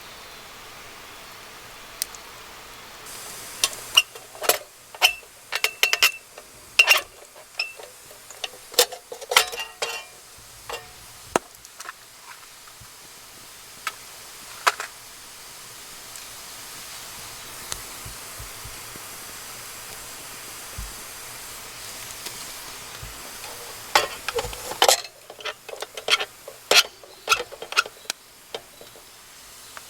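Utensils clinking and scraping against cookware while food is stirred, in two spells of sharp clinks over a steady hiss of cooking.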